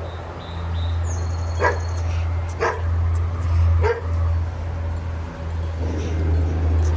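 A dog barks three times, about a second apart, over a steady low rumble of wind buffeting the microphone. Wind chimes ring briefly near the start as a gust comes through.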